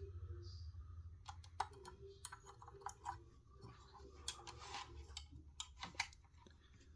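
Faint, scattered small clicks and taps of a 1/18-scale diecast model car being handled, its opening door being worked.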